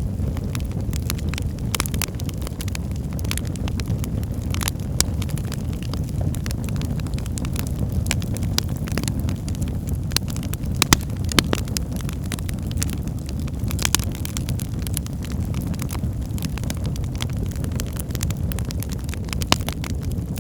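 Fire crackling in a fireplace: a steady low rumble of flames with frequent small crackles, and a few louder pops about halfway through and near the end.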